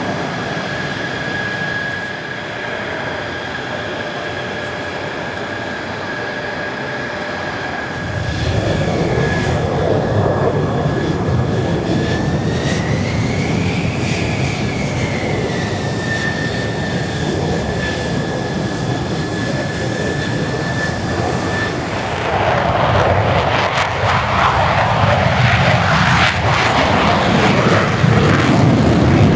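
Mitsubishi F-2A fighter jets flying by, their single turbofan engines giving a steady high whine over a low roar. The roar builds about a quarter of the way in and grows louder again in the last third as the jets come closer.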